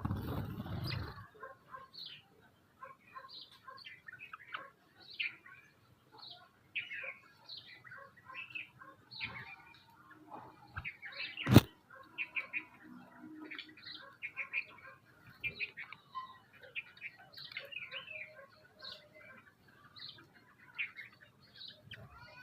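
Small birds chirping and calling in many short, overlapping notes throughout. There is a low rumble in the first second and a single sharp knock about halfway through.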